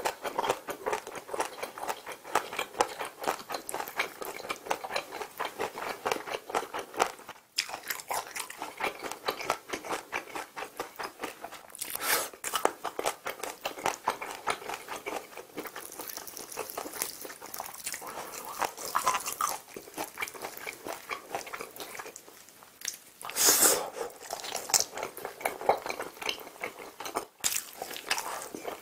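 Close-miked eating: chewing sauce-coated fried chicken, with a dense run of quick crunchy clicks and a few louder bites.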